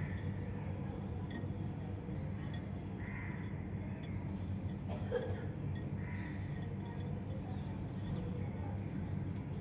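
A cockatiel's soft chirps and chatter every few seconds over a steady low hum, with a few small clicks.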